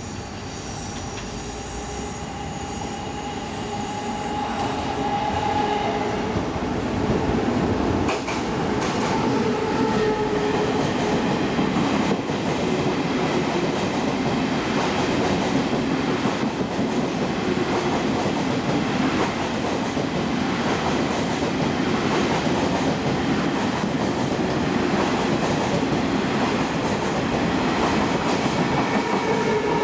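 Tze-Chiang express train running past close alongside the platform. The sound builds over the first several seconds as it nears, then holds steady as the cars roll by, with irregular clicks of the wheels over rail joints.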